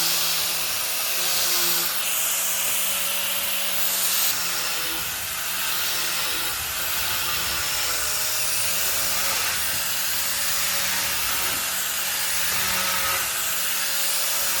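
A power tool running steadily on wood, its motor pitch wavering slightly as it is pressed into the work, over a grinding hiss.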